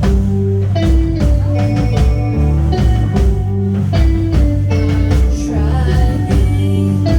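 A rock band playing live: a heavy, loud bass line under electric guitar, with drums keeping a steady beat.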